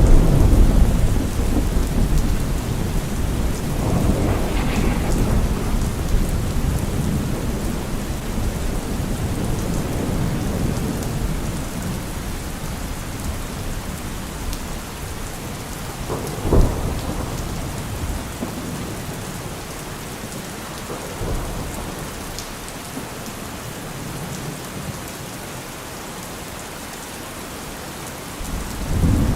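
Steady rain falling, with thunder: a long low rumble at the start that dies away over about ten seconds, a sharp thunderclap about halfway through, and another rumble building near the end.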